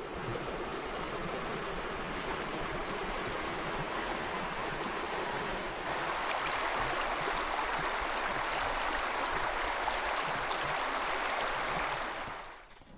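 Water rushing steadily over a small dam, louder from about halfway through, then fading out near the end.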